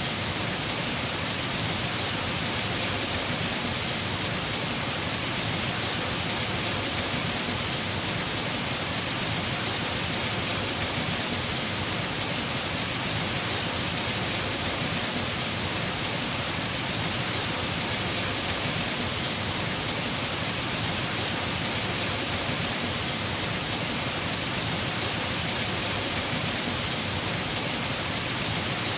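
Heavy rain falling steadily on a house roof, an even, unbroken hiss of drops with no distinct thunderclaps.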